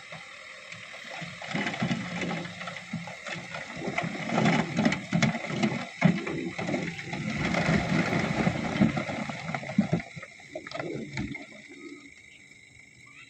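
Isuzu dump truck tipping a load of rocky fill: dense clattering and knocking of stones sliding off the bed over a low rumble, dying down about ten seconds in.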